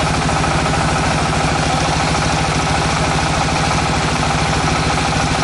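Tractor engine of a tractor-mounted water well drilling rig running steadily, with an even, rapid beat.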